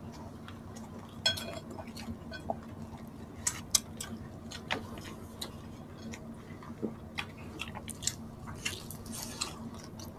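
Mouth-close chewing of tender pork meat from a crispy pata: scattered short wet clicks and smacks, a few every second.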